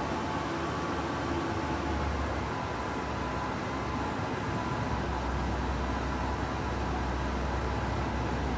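A classic Cadillac V8 idling steadily in a concrete parking garage, its low end growing a little heavier about five seconds in.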